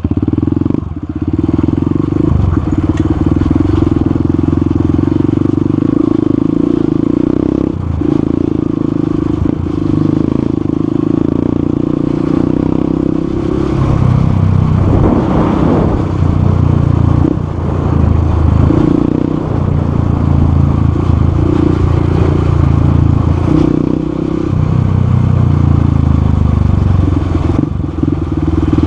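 Motorcycle engine running under way, its note rising and falling with throttle changes.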